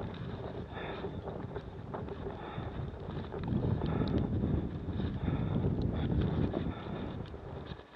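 Wind buffeting the microphone, swelling louder through the middle, with footsteps crunching in snow at a steady walking pace, about one step every second.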